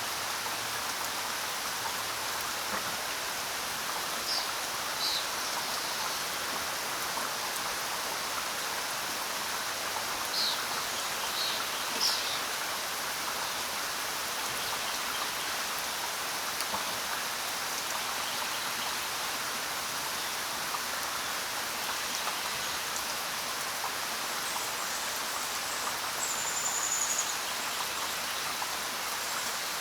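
Steady rain falling, with a few short bird chirps now and then and a brief high bird trill near the end.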